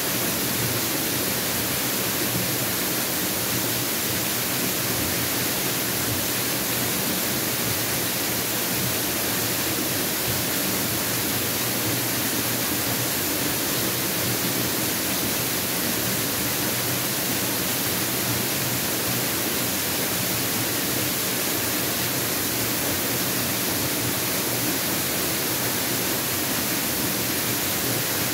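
Mountain waterfall rushing: a steady, even roar of falling water that holds the same level throughout.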